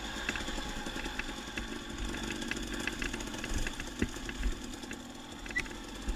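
Dirt bike engine idling at low revs, with scattered small clicks and knocks over it.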